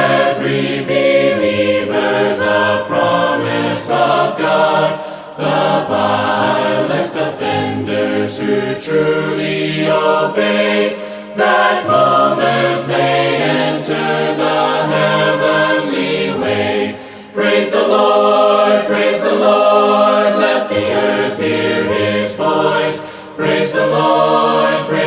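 An a cappella choir singing a hymn in several-part harmony, voices only with no instruments.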